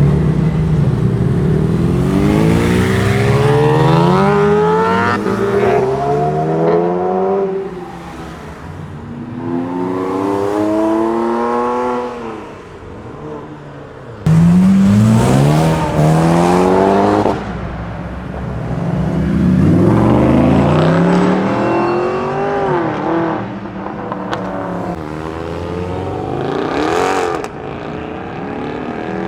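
Several performance cars accelerating hard one after another, each engine's pitch climbing again and again as it runs up through the gears. The loudest pull starts abruptly about fourteen seconds in.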